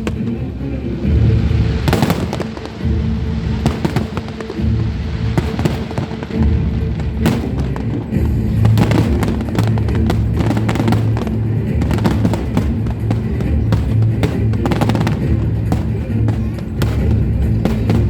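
Fireworks display: repeated sharp bangs and crackling bursts, some in quick clusters, over loud accompanying show music.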